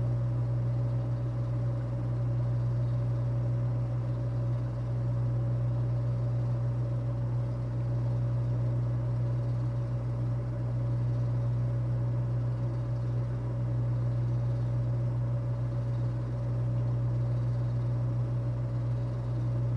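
A steady low hum with a faint higher whine, unchanging throughout.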